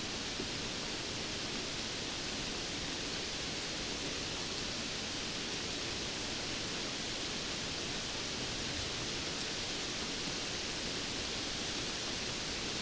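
Steady rain falling: an even, unbroken hiss, brightest in the upper range, with no separate drops or thunder standing out.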